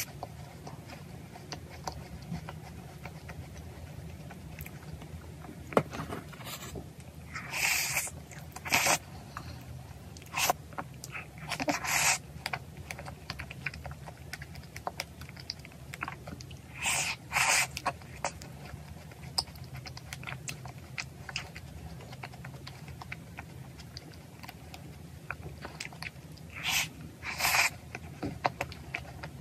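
Close-miked chewing and crunching of pastry crust with whipped cream, with several louder crunchy bites scattered among softer chewing and mouth clicks, over a low steady hum.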